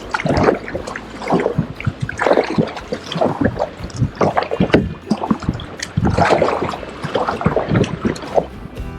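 Kayak paddle blades dipping and splashing into sea water in repeated strokes, roughly one a second, with water sloshing around the boat.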